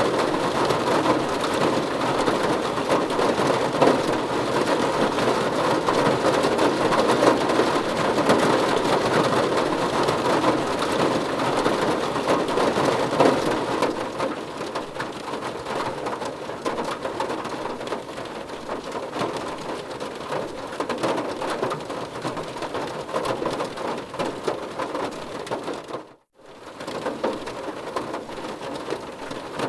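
Heavy rain falling steadily, a dense hiss of many drops. It eases a little about halfway through and cuts out completely for a moment near the end.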